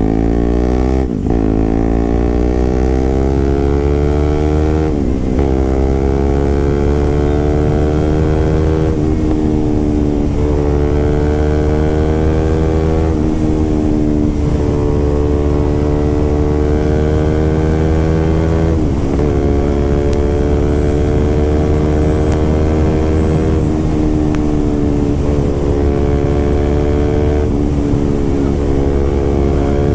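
Motorcycle engine through an SC-Project aftermarket exhaust, riding under way. The exhaust note climbs steadily in pitch and drops abruptly several times as the bike changes gear.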